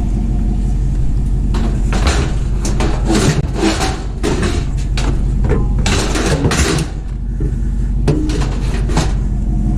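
A vehicle engine idling steadily underneath a run of knocks, clunks and rattles from scrap and junk being handled and shifted.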